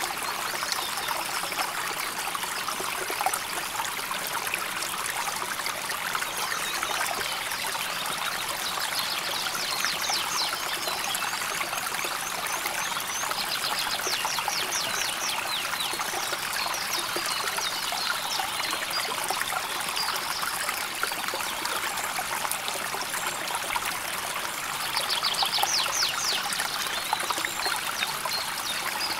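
River water flowing and trickling steadily over stones. A short high trill rises above the water a few times.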